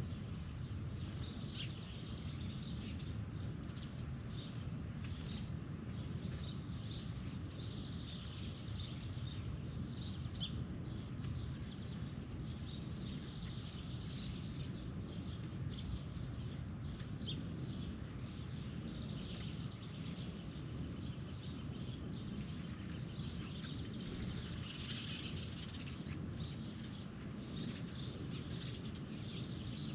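Birds chirping in many short, repeated calls, over a steady low background noise.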